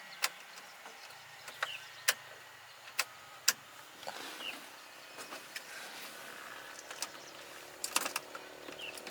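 A few sharp clicks and knocks at irregular intervals, with a quick cluster of them about eight seconds in, over a faint low hum.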